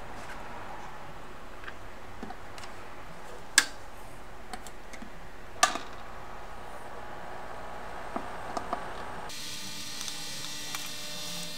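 Sharp clicks and taps of small tools at a microsoldering bench over a steady hum: two loud single clicks a few seconds apart, then a few faint ticks. About nine seconds in, a steady hiss with faint high whining tones starts.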